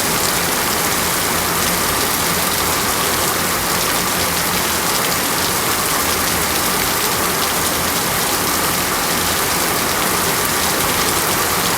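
Water falling or running in a steady, even hiss that does not let up.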